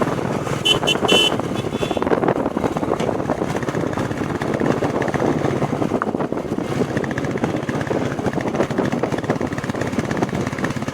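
Royal Enfield Classic 350's single-cylinder engine running steadily under way, with a fast, even pulsing. A few short, high horn beeps sound about a second in.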